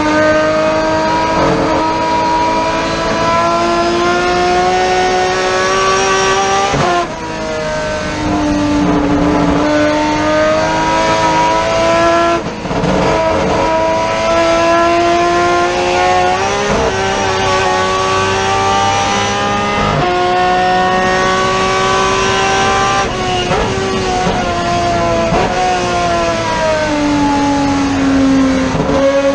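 Race car engine running hard on a lap, its pitch climbing steadily and then dropping sharply about six times at gear changes, with spray and tyre noise from a wet track.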